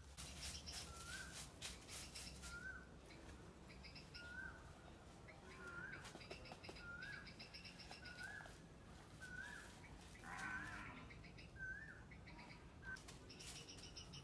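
Birds calling: one repeats a short rising note about once a second, while bursts of faster, higher chirping come and go.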